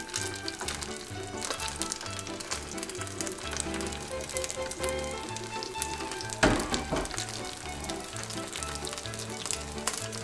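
Spring rolls sizzling and crackling as they fry in shallow oil in a pan, under background music with a repeating bass line; a single louder knock about six and a half seconds in.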